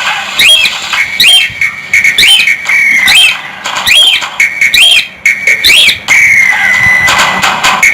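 Cockatiel whistling: a run of short rising whistles about once a second, then one long held whistle about six seconds in.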